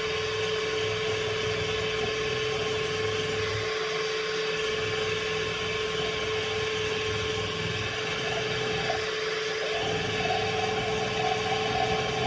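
Milling machine running with a steady motor hum and whine while a centre drill is fed into a workpiece. The low hum eases off briefly twice, as the feed pauses and resumes.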